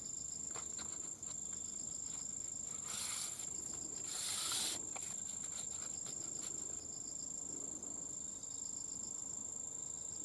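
A steady, high-pitched insect trill, with two short rustling hisses about three and four and a half seconds in.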